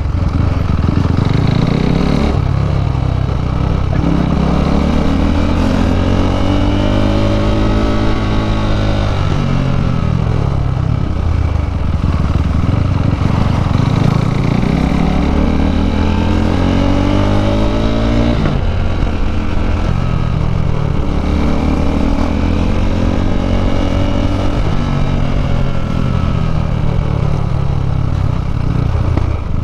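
KTM RC 390's single-cylinder engine through an Akrapovič exhaust, heard while riding. The engine note rises and falls several times as the bike accelerates and eases off, with a sudden drop in pitch about two-thirds of the way through, over steady wind rumble.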